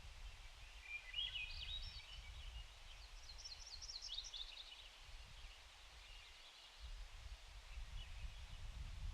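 Small birds calling in quick chirpy bursts, twice in the first half and more faintly near the end, over a low, uneven rumble of outdoor ambience.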